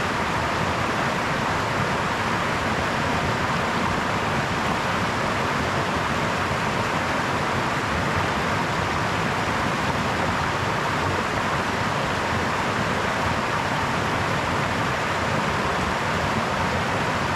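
A brook flowing with a steady, unchanging rush of water.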